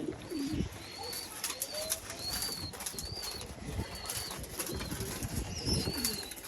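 Pigeons in a loft: wings flapping in short bursts, over a high peep that repeats about every half second.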